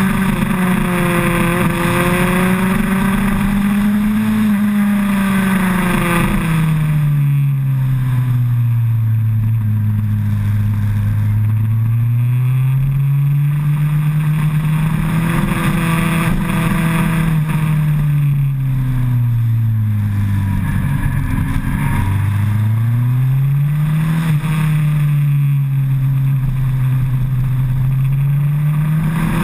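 Suzuki Hayabusa's inline-four engine heard onboard while riding, its pitch rising and falling as the rider accelerates and rolls off through bends. It drops low twice, about a third of the way in and again about two-thirds through, then climbs and holds. Wind rush is heaviest in the first few seconds.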